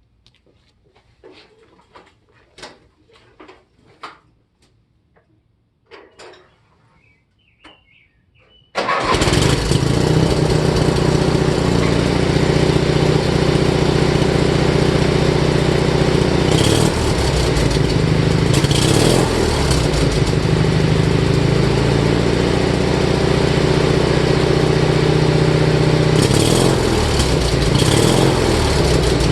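Riding lawn tractor engine with dual exhaust: a few faint clicks and knocks, then about nine seconds in the engine fires all at once and runs loud and steady, with a few brief surges in revs later on.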